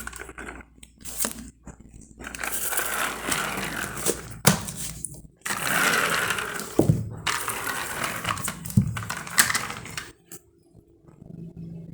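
Plastic toys being handled: rustling and clattering in three long stretches, broken by several sharp clicks and knocks.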